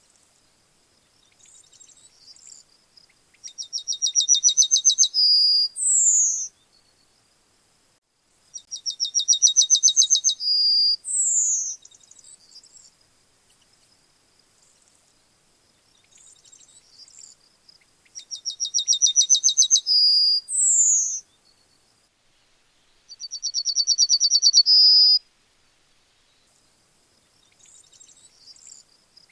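Yellowhammer singing: four songs, each a fast run of repeated notes that grows louder and ends in a longer final note, three of them closing with a high down-slurred note. Fainter, softer notes come between the songs.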